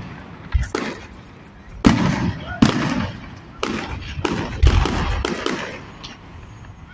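Aerial fireworks bursting: about a dozen sharp bangs at irregular intervals, each dying away over a fraction of a second, with a quieter lull between them near the start and again near the end.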